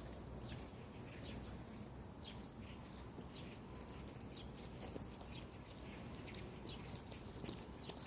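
Small birds chirping in the morning: short, downward-slurred chirps repeated about twice a second, over a low steady rumble.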